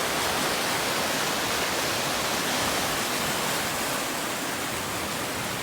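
Rushing river water: a steady, even roar of a fast-flowing mountain stream over rocks.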